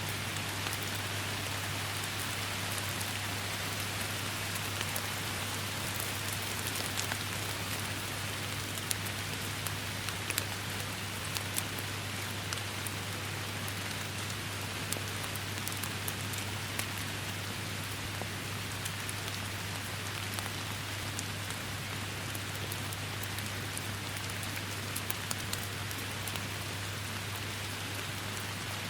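Steady heavy rain pouring down, a dense even hiss with scattered sharper drop hits throughout, over a steady low hum.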